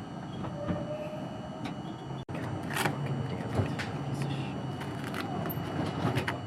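R42 subway car running along the track, heard from inside the car: a steady rumble with irregular sharp clicks of the wheels over rail joints.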